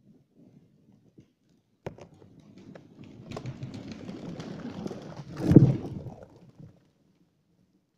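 Tree falling: a sharp crack of breaking wood, then branches crackling and snapping as it comes down, ending in a heavy crash at about five and a half seconds.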